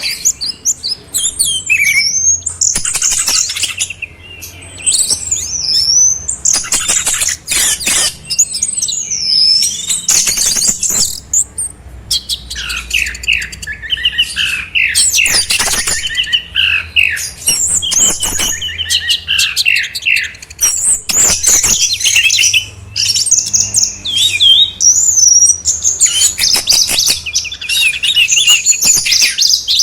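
Songbird song compiled as a training recording (masteran) for an orange-headed thrush: a continuous, busy run of fast chirps, trills and sliding whistled notes broken by sharp chattering notes.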